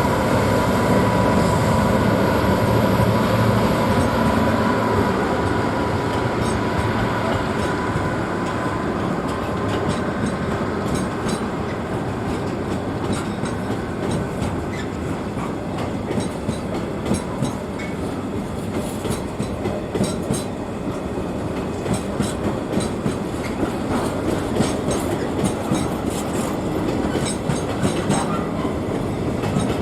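Train passing on the line: a low engine hum and a steady whine fade over the first several seconds, then the wheels clatter over the rail joints with rapid clicks for the rest.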